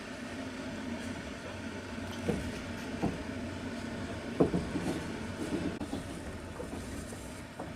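Passenger train running, heard from inside the carriage: a steady rumble of wheels on the track, with a few sharp knocks as the wheels cross rail joints, the loudest about four and a half seconds in.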